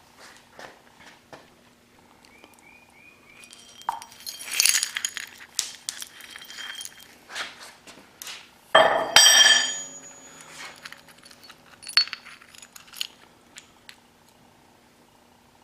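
Broken pieces of a crushed aluminium piston and its steel rings clinking and clattering against each other and the press, in scattered clicks with a louder ringing clatter about nine seconds in.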